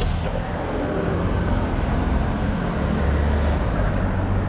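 Steady low rumble of a bicycle ride picked up by a bike-mounted camera: wind buffeting the microphone together with road and tyre noise.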